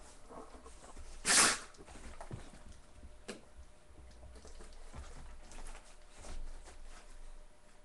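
Dogs at play: one short, loud rush of noise about a second and a half in, then a sharp click and softer intermittent noises.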